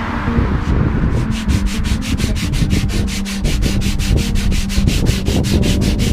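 Sandpaper rubbed back and forth on the back of a wooden guitar neck while it is shaped. The strokes come quick and even, about six a second, from about a second in.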